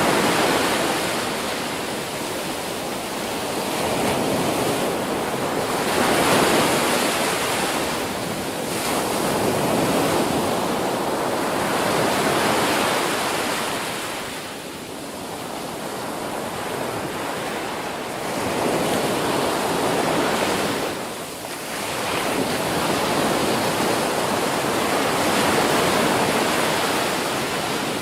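Ocean surf: waves breaking and washing on a beach in a continuous wash, swelling and easing every few seconds.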